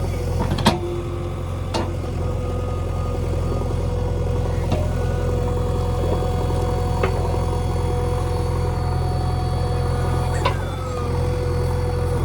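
The diesel engine of a JCB 3DX backhoe loader runs steadily with a low hum and a steady whine. Several sharp knocks or rattles are heard along the way.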